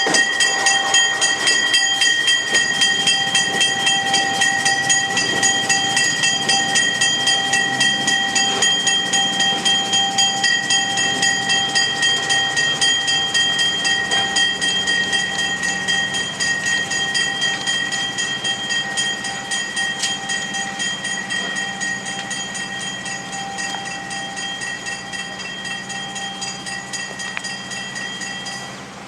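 Locomotive bell ringing steadily with rapid, even strokes, slowly fading as it moves away, with a faint low engine hum underneath.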